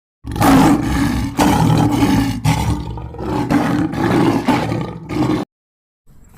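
A large animal's loud, rough call lasting about five seconds, in several long pulses, cutting off abruptly.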